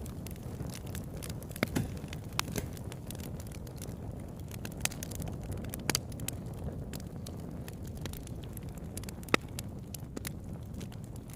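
Wood fire burning, with a steady low rumble and sharp, irregular crackles and pops from the burning wood, the loudest pop about nine seconds in.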